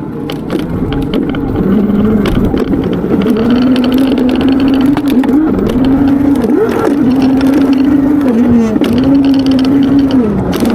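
Valtinsu EM-22 electric dirt bike's 4000 W motor whining under way, its pitch rising and dipping several times as the throttle and speed change, over a rush of noise and scattered knocks from riding rough ground.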